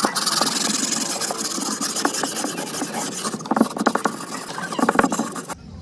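Rough abrasive rubbing against a hard surface, continuous with scattered clicks, stopping abruptly near the end.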